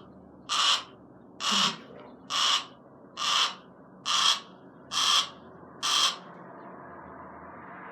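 Barn owl hissing in harsh, breathy bursts, about one a second, stopping about six seconds in: the defensive hiss of a stressed owl being handled.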